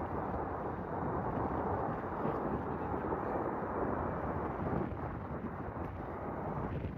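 Gusty wind buffeting the microphone: a steady rushing rumble that swells a little in the middle.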